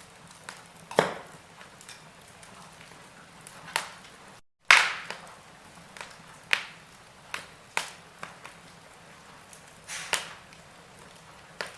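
Wood fire in a fireplace crackling, with sharp pops at irregular intervals over a low steady hiss. The sound cuts out briefly a little over four seconds in, then the loudest pop follows.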